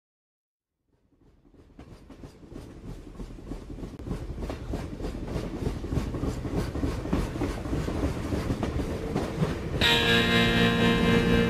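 A recorded train rolling on rails, its clickety-clack fading in after a second of silence and growing steadily louder. Guitar music comes in near the end as the song's intro gets under way.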